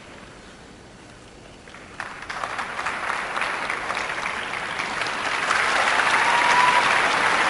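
Arena crowd applauding. The applause is low at first, swells suddenly about two seconds in and grows louder toward the end.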